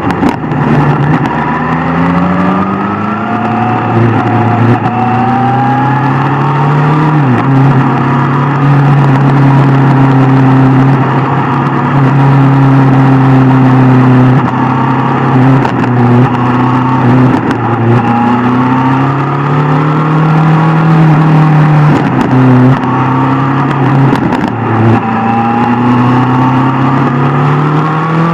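Sport motorcycle engine running under load on the road, with wind rushing past. The revs climb early on and again near the end, with a brief drop about seven seconds in.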